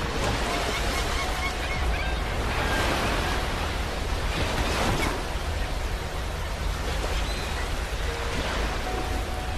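Ocean surf: waves breaking and washing up a beach in a steady rush, swelling about two to three seconds in and again about five seconds in. Short honking calls sound over it.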